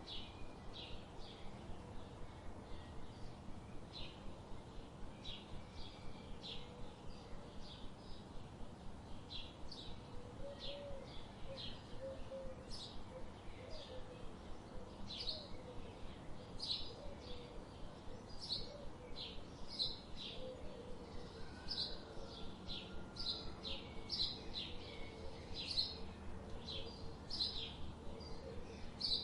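Songbirds chirping: a running series of short, high chirps, about two a second, over a steady low rush of river water, with a lower warbling call joining in around the middle.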